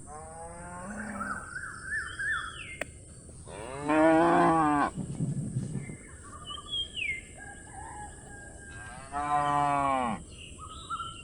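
A calf mooing: a softer call near the start, then two loud, drawn-out moos about five seconds apart. Small birds chirp faintly between the calls.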